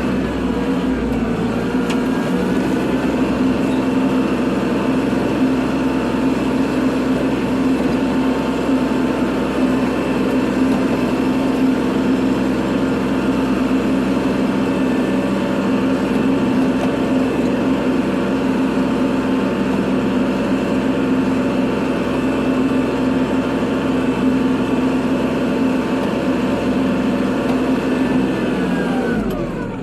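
Kubota tractor's diesel engine running steadily at working speed during snow plowing. Near the end the revs drop briefly and then climb back up.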